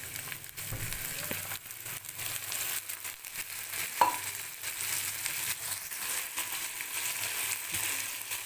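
Wet boiled cluster beans sizzling in hot oil in a frying pan as a steel spoon stirs and scrapes them around. The water on the boiled beans spits in the oil. There is one sharp clink of the spoon against the pan about four seconds in.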